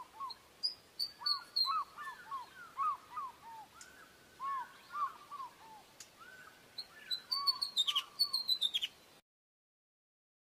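Osprey calling: a series of short whistled notes, joined near the end by a quick run of higher, sharper piping notes. The calls stop abruptly about nine seconds in.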